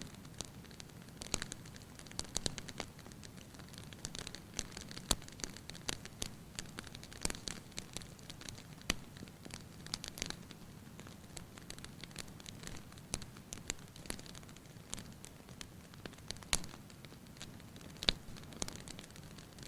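Fireplace fire crackling: irregular sharp pops and snaps over a low steady rumble, with one louder pop near the end.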